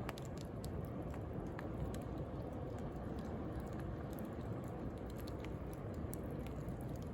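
Wood bonfire crackling with scattered sharp pops, over a steady low rush of sea waves.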